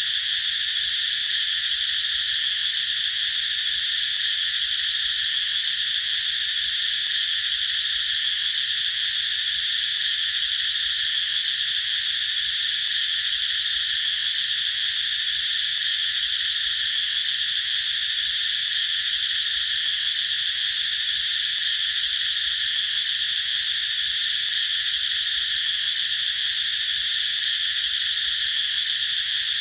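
A chorus of cicadas singing: a continuous, even high-pitched drone that never lets up.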